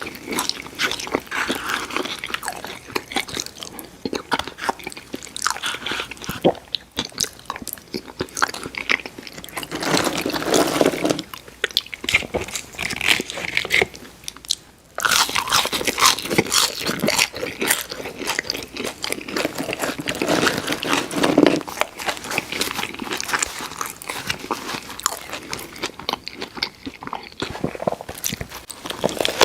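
Close-miked eating of crispy fried fast food: crunching bites and wet chewing going on continuously, with a brief pause about halfway.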